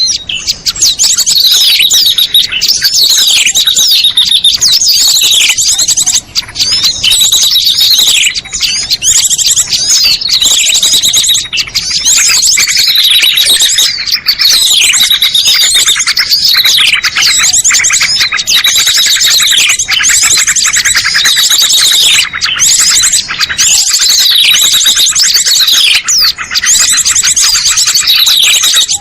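Loud, continuous chattering of small songbirds: rapid high trills and falling chirps that repeat every second or two. It is a recorded lure call (pikat) used to draw small birds down.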